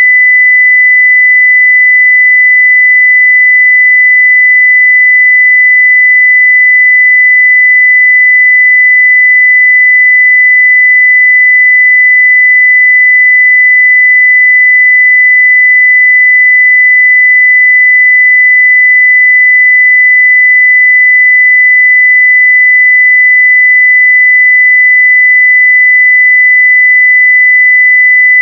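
A pure 2 kHz sine-wave test tone at full level, held perfectly steady.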